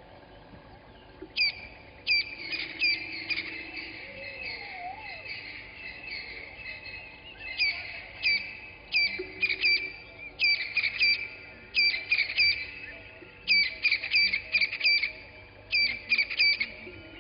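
A wild bird calling in quick bursts of three to five sharp, high notes, repeated several times over, against a background of fainter birds.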